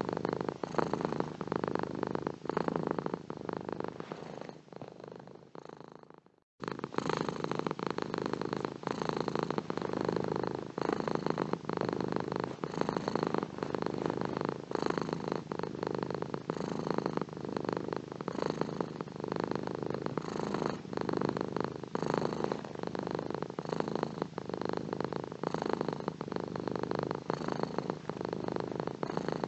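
Domestic cat purring steadily in a fast, rough, continuous rumble. About five seconds in it fades down and cuts out for a moment, then starts again abruptly and runs on.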